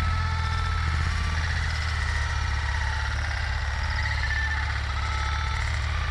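Tractor engine running steadily with a constant low drone, a wavering higher whine above it.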